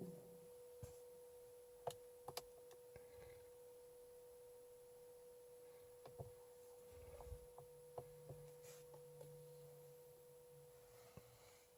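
Near silence: a faint steady tone with a few light clicks, and a faint low hum in the second half.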